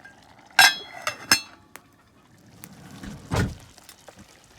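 Cooking utensils clinking against a metal pot: three sharp, ringing clinks in the first second and a half, the first the loudest, then a duller knock a couple of seconds later.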